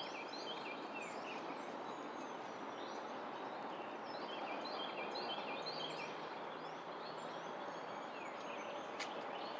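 Birds calling outdoors, with many short repeated chirps and whistled notes over a steady background hiss. A couple of sharp clicks come near the end.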